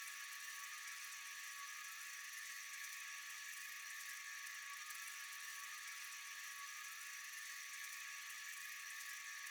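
Steady, continuous high-pitched night insect chorus, an even shimmering hiss with a few held high tones and no breaks.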